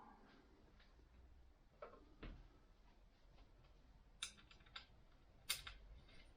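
Near silence broken by a few faint clicks and ticks of metal hand-tool work, with a small cluster of quick ticks about four seconds in.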